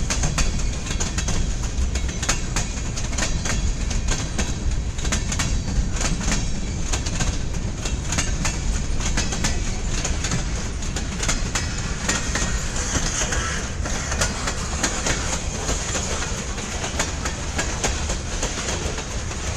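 Freight cars rolling past on the track: a steady low rumble with a dense run of wheel clicks and clacks over the rail joints.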